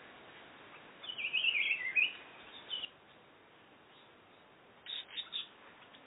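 Songbird chirping in a forest: a quick, chattering run of high notes about a second in, then a single chirp and a cluster of three short chirps near the end, over faint steady background hiss.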